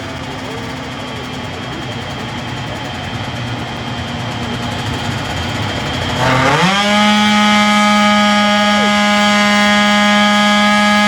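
A machine running in the background. About six seconds in, a motor spins up quickly and then holds a steady, high-pitched whine.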